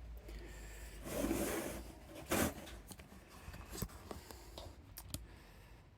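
Handling noises: a rubbing swish about a second in, a sharper knock a little after two seconds, then scattered light clicks.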